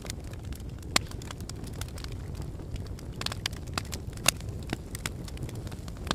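Volcanic eruption: a steady low rumble with frequent sharp cracks and crackles, two of them louder, about a second in and past the four-second mark.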